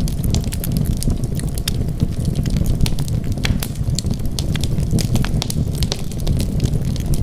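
Wood fire burning, with frequent irregular crackles and pops over a steady low rumble of flames.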